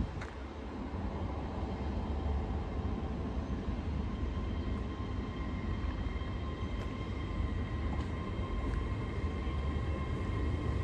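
LNER Class 801 Azuma train moving out of the station: a steady low rumble with faint high steady tones above it and a few light clicks.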